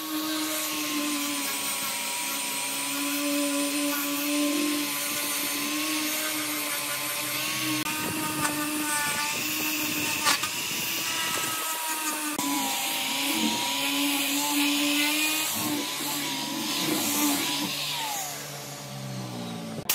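Electric power tool motor running steadily as it works wood, with a short break about twelve seconds in and a falling whine as it winds down near the end.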